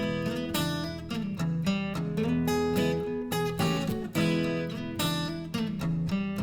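Intro music: strummed acoustic guitar playing chords with a steady rhythm.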